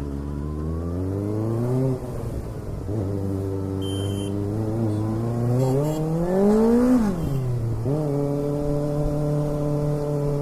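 Kawasaki ZX6R's inline-four engine pulling through the gears. Its pitch climbs, drops sharply near two seconds at a gear change, then climbs again to a peak about seven seconds in. It falls quickly as the throttle is shut and holds a steady pitch for the last couple of seconds.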